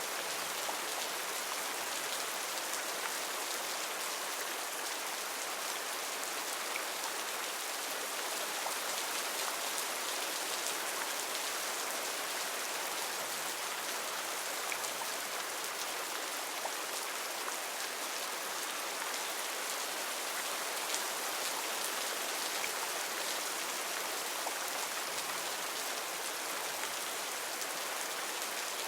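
Heavy rain falling steadily, an even hiss of drops with countless small patters on leaves and surfaces.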